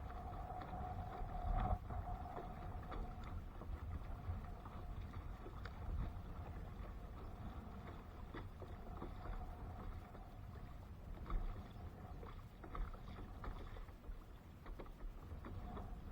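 Water sounds around a kayak on open water, with a steady low rumble and a few light knocks against the hull, the loudest about two seconds in and again near eleven seconds.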